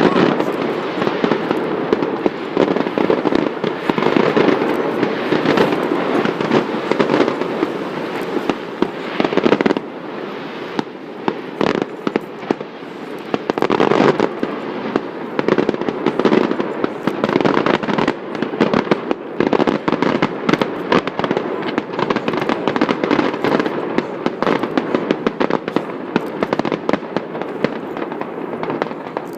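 Distant fireworks display going off continuously: a dense run of bangs and crackles that blur into a rumbling wash, with louder stretches around four and fourteen seconds in.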